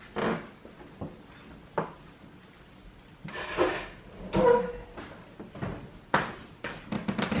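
A string of short knocks, bumps and scrapes, like drawers or cupboards being handled, with a quicker run of clicks and knocks near the end.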